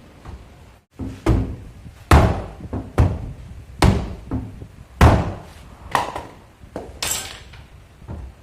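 Hammer blows on a car's sheet-metal body panel: a series of dull, heavy strikes, the strongest coming roughly one a second, as a dent is beaten out.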